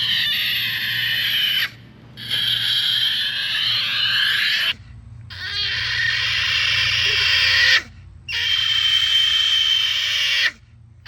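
Miniature potbelly pig squealing while being handled for a bath: four long, high screams of about two seconds each with short breaks for breath between.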